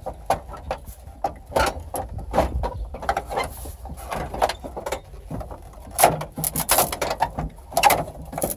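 Irregular clicking, knocking and scraping of truck dashboard parts being pried and worked loose, with a denser run of cracks and knocks about six seconds in.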